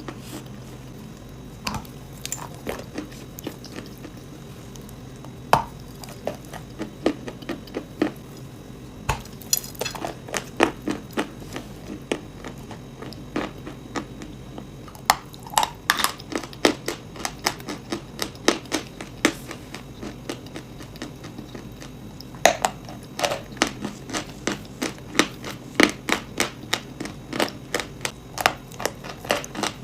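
Close-miked crunching of chalk and clay being bitten and chewed: irregular sharp crunches and cracks in quick runs, with a few quieter gaps.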